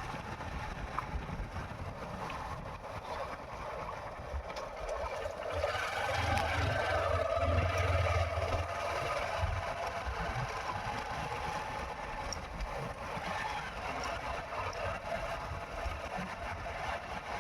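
Motorcycle engine running under way, a steady drone mixed with road and wind noise. It swells louder for a few seconds past the middle, then settles back.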